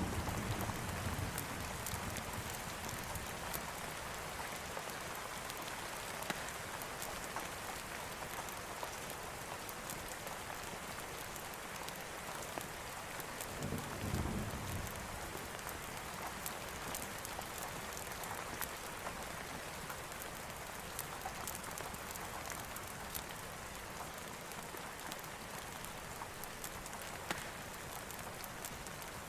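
Steady heavy rain falling on a surface, with scattered sharp ticks. The tail of a thunder rumble fades at the start, and a short low rumble of distant thunder comes about halfway through.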